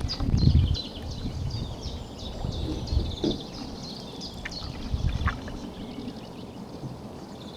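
A small bird sings a fast run of repeated chirps and trills, thinning out after about five seconds. Under it come low, muffled swishes from the strokes of a canoe paddle, one every couple of seconds.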